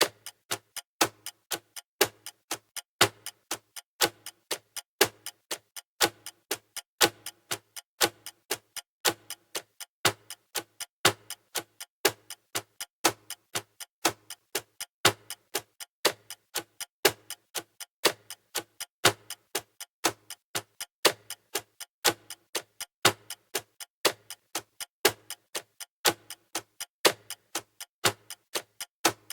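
Clock ticking sound effect of a countdown timer: steady, even ticks about two a second, alternating louder and softer like a tick-tock.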